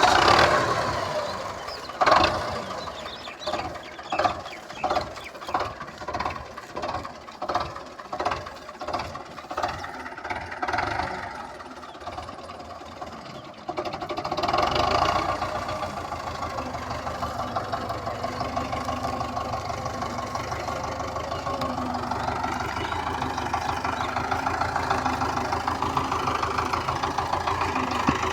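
Russian-made diesel tractor engine being started. It turns over in slow, uneven pulses, then about halfway through it catches and settles into steady running.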